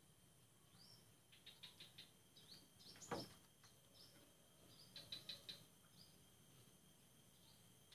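Faint chirping of a small bird: short runs of quick high notes, heard several times, with a single sharp click about three seconds in.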